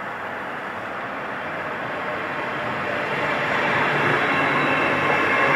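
A train approaching on the main line, its running noise growing steadily louder.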